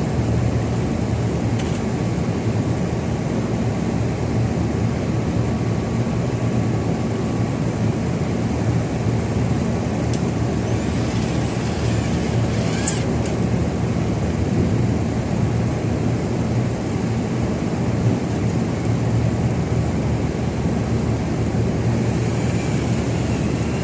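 A reaper's engine running steadily with an even drone. A short high squeak sounds about halfway through.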